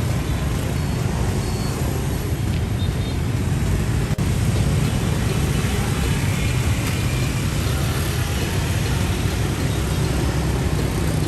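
Motor vehicle engine running steadily as a low rumble, with road traffic noise around it. One sharp click about four seconds in.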